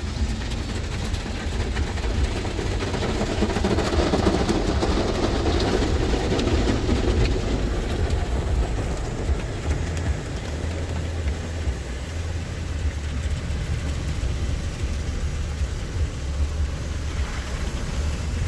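An automatic car wash's machinery working over a stationary car, heard from inside the cabin. It makes a steady low rumble, with a louder swell of spraying and scrubbing noise a few seconds in that then settles back.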